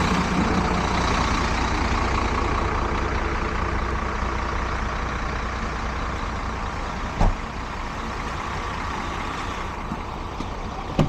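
Tow truck's diesel engine running steadily under a continuous hiss, easing off a little, with a single sharp knock about seven seconds in.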